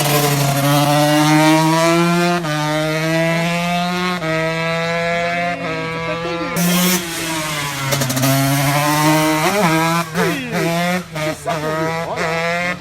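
Racing motorcycle engine at high revs, accelerating up through the gears, with the pitch dropping at each upshift. Near the end the revs rise and fall unevenly.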